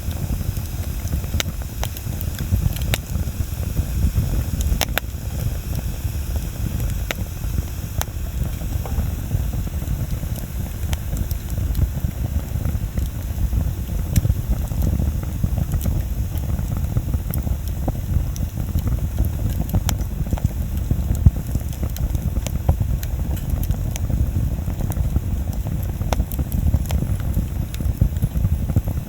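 Wood bonfire burning: a steady low rumble with scattered sharp crackles and pops of burning wood, one louder pop about two-thirds of the way through.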